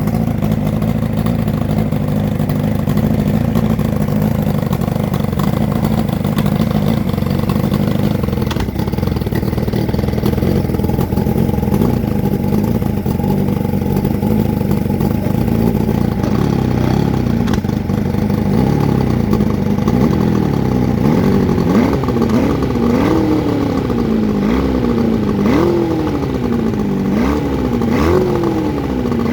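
Freshly rebuilt Evinrude 90 Ocean Pro two-stroke outboard running steadily, then from about two-thirds of the way through being revved in repeated throttle blips, each rising sharply and falling back about every second and a half. It sounds pretty angry.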